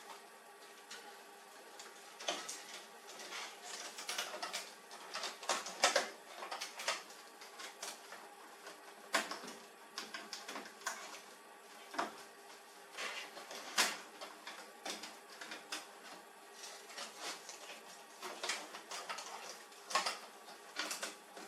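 Irregular clicks, taps and knocks of plastic and metal printer parts being handled during work on a laser printer, a few louder knocks standing out, over a faint steady hum.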